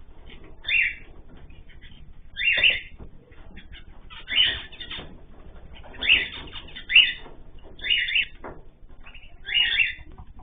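Pet birds calling: about seven loud, harsh calls roughly a second apart, over a steady background of faint chirps and rustling.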